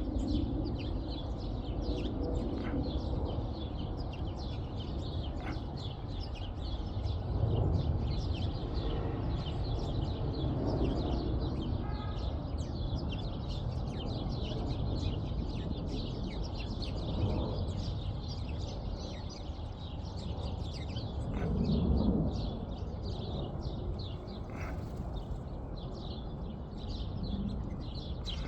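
Many small birds chirping in a dense, continuous chorus over a steady low rumble that swells slightly twice.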